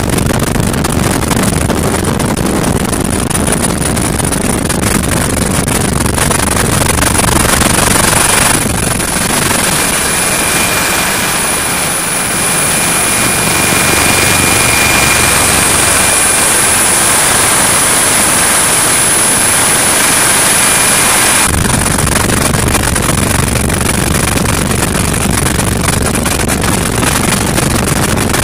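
Steady noise of an HH-65 Dolphin twin-engine helicopter in flight. The sound changes abruptly twice, about nine seconds in and again about twenty-one seconds in. The middle stretch is thinner in the low end and carries a steady high whine.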